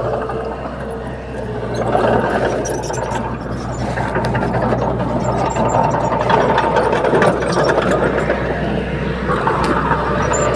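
Diesel engine of heavy earthmoving machinery running steadily, growing louder about two seconds in, with scattered short knocks.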